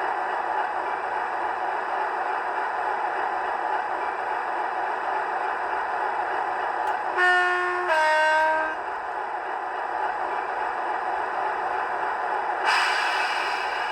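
Two-tone train horn sounding a higher note and then a lower one, each well under a second, about seven seconds in, over a steady running noise. A sudden hiss starts near the end.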